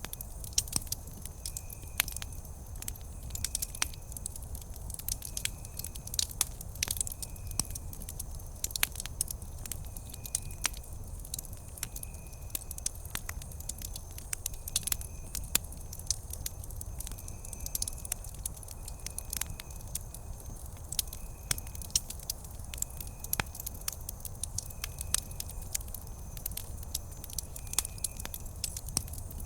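Wood fire burning, with frequent sharp crackles and pops over a steady low rumble of flame.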